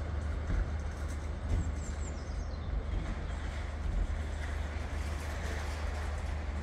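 Steady low rumble of a train running in the station, with a faint high squeal that falls in pitch about two seconds in.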